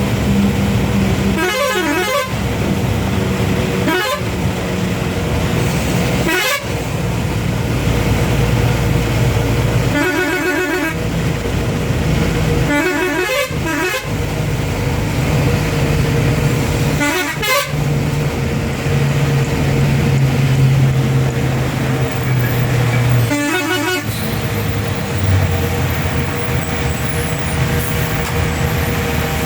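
Road traffic: heavy vehicle engines running steadily, vehicles passing every few seconds, and horns honking.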